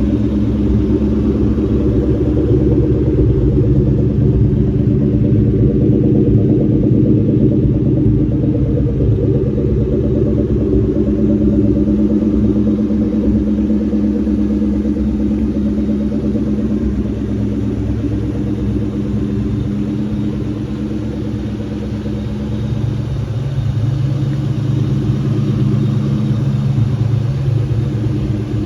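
A 2003 Mustang SVT Cobra's supercharged 4.6-litre V8 running at low, fairly steady revs through its Borla exhaust. The engine dips a little about twenty seconds in, then picks up again.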